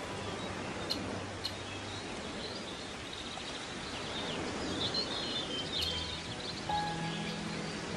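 Birds chirping now and then over a steady hiss of outdoor background noise.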